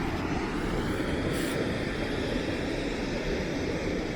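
Steady rushing roar of a waterfall, with a brief high hiss about a second and a half in.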